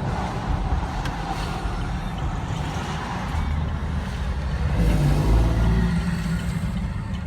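Road traffic with a heavy truck driving past close by. Its low engine rumble swells to its loudest about five seconds in and then eases off.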